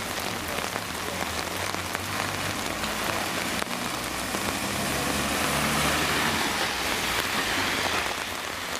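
Heavy rain pouring onto a paved road, a steady hiss. A low engine hum of a passing vehicle sits beneath it through the middle seconds.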